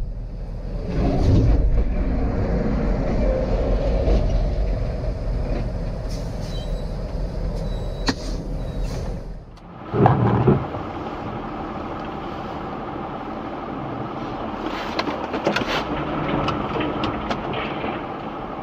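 Steady vehicle running and road noise as heard from inside a moving car. About nine and a half seconds in it drops out, and after a short loud knock a different steady driving noise takes over, with a few scattered clicks.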